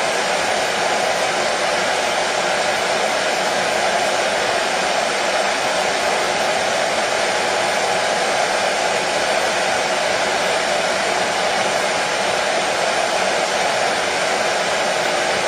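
Hair dryer running steadily, a constant whooshing rush of air and motor noise with no change in pitch or level.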